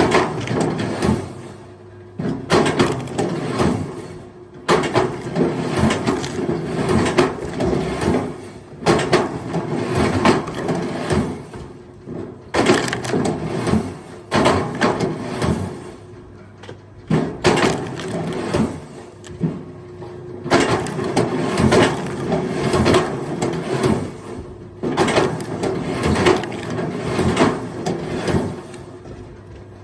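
Firewood logs clattering and knocking against each other as they are thrown onto a pile, in repeated irregular bursts with short pauses between armfuls.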